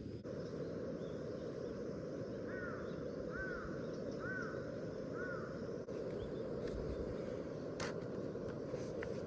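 A bird calls four times in a row, each call rising and falling, over a steady low rushing background. Two sharp pops come near the end.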